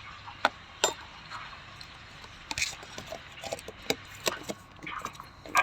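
Scattered short, sharp clicks and taps of small objects being handled, over a faint steady hiss, with a louder clatter near the end.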